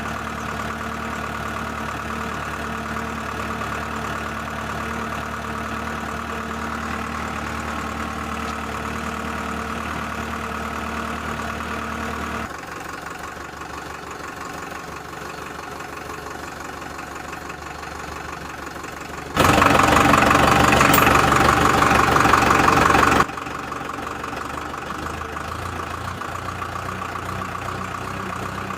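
Mini toy tractor running steadily with a whirring mechanical drone. The level steps down about twelve seconds in, then jumps much louder for about four seconds near the end before dropping back.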